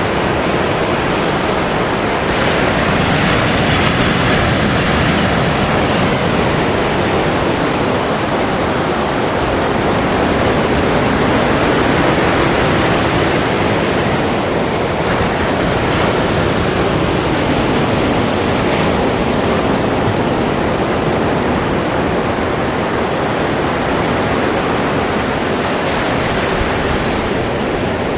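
Ocean waves breaking and washing on a shore in a continuous dense rush of surf, swelling and easing slowly every several seconds.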